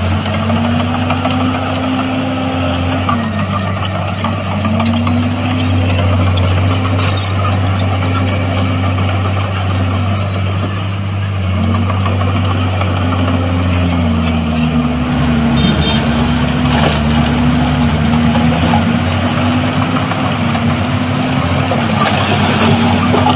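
Heavy earthmoving machine's diesel engine running steadily, its pitch dipping and recovering again and again as the load changes. The low drone shifts about 14 seconds in.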